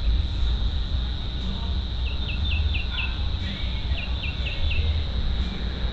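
Crickets trilling steadily, with a bird giving two quick runs of short down-slurred notes, the first about two seconds in and the second about four seconds in. A steady low rumble underlies it all and is the loudest part.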